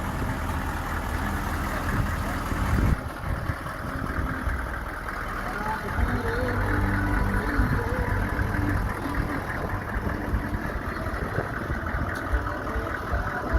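Hummer H1's 6.5-litre turbo-diesel V8 idling steadily. Its sound changes abruptly about three seconds in.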